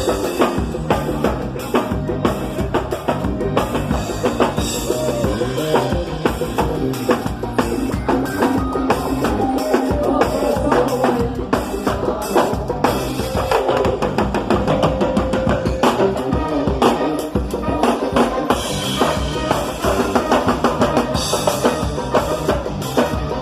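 Live band playing at a sound check, driven by a drum kit: a steady beat of kick drum, snare and rimshots, with held melodic notes from other instruments over it.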